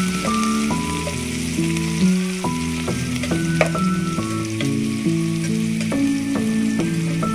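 Chopped vegetables and garlic sizzling in hot oil in a pot, stirred with a metal spatula that scrapes the pot now and then. Background music with sustained notes plays throughout.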